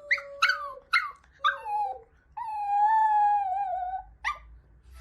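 A dog vocalising: a run of short whining yips, then one long wavering howl-like whine that dips at its end, and a last short yelp near the end.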